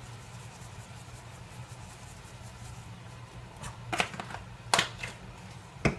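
A handful of short, sharp clicks and taps in the second half from spice jars being handled while dried herbs go into the pan, over a low steady hum.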